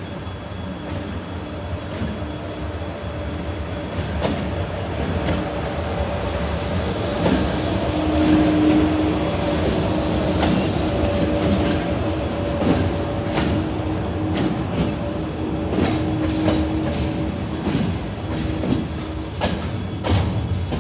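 A train hauled by a 2ES4K "Donchak" electric locomotive rolling past: a steady rumble of wheels with repeated clicks over the rail joints and an on-and-off wheel squeal.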